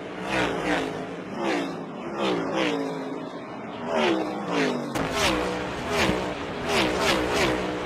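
NASCAR Next Gen Cup cars' V8 engines passing one after another at race speed, each engine note dropping in pitch as it goes by, several times a second. About five seconds in, a deeper rumble suddenly joins.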